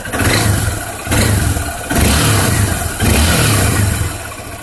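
Honda Bros 150 single-cylinder motorcycle engine with its stock exhaust, revved in four throttle blips about a second apart, then settling back toward idle near the end.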